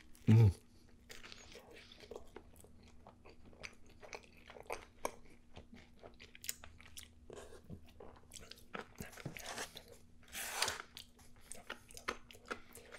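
Close-miked chewing of a crispy sandwich of fried chicken, onion rings and bacon on a toasted roll: crunches and small wet mouth clicks throughout. A short, louder low sound comes just after the start.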